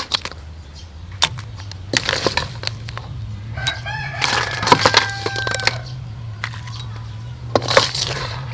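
A rooster crowing once, a long held call about four seconds in, with scattered sharp clicks and a steady low hum underneath.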